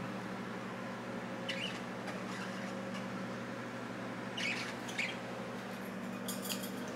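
Budgerigars giving short chirps and squawks now and then, with a quick run of chirps near the end, over a steady low hum.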